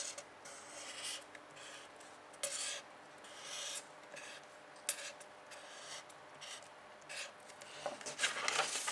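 Pen strokes scratching across a writing surface: a series of short scraping strokes with brief gaps between them, and a quicker run of strokes near the end.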